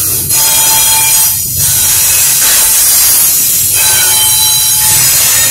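Double-stack container freight train rolling past close by: a loud, steady rush of steel wheels on rail with thin squealing tones over it, the noise dipping briefly a few times as the cars go by.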